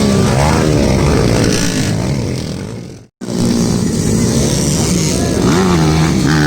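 Motocross bikes racing, their engines revving with the pitch rising and falling. The sound drops out briefly about three seconds in, then the bikes are heard again.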